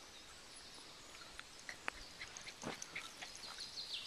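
Faint forest birdsong: scattered short high chirps, with a quick run of chirps near the end, over light clicks and rustles.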